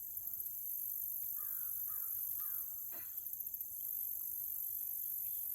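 A crow cawing three times in quick succession, about half a second apart, near the middle, over a steady high-pitched drone of insects.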